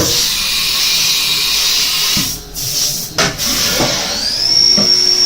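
Haas VF-3 CNC vertical machining center doing a tool change: a steady hiss, broken twice by knocks from the changer a little past halfway, then the spindle spins up with a rising whine that settles into a steady high tone near the end.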